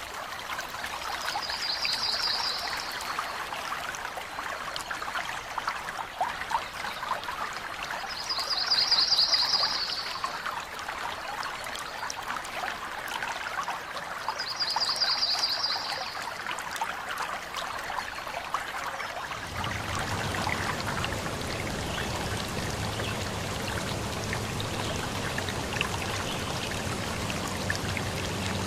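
Forest stream trickling and splashing over rocks. Three short trilled bird calls, about six seconds apart, sound over the water in the first half. About two-thirds of the way in, the water changes to a fuller, deeper rush.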